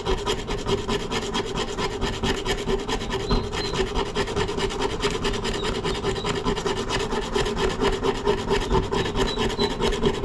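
A rusted garden axe head being scrubbed with an abrasive in rapid, even back-and-forth strokes, a continuous rasping rub with a faint metallic ring here and there.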